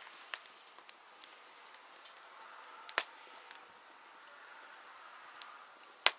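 Wood fire crackling: scattered small pops over a low hiss, with two sharper cracks, one about three seconds in and one near the end.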